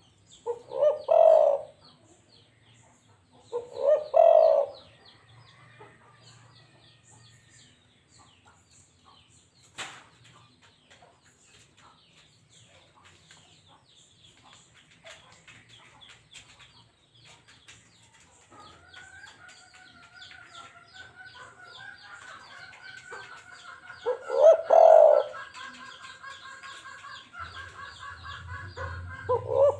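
Balam (spotted dove) cooing: four loud coos of about a second each, two near the start and two near the end. A single sharp click comes about ten seconds in, and fainter, rapidly repeating calls from another bird run through the second half.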